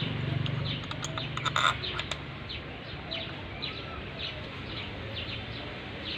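A bird chirps over and over in short, falling notes, with a few sharp metallic clinks of tools and engine parts about one to two seconds in.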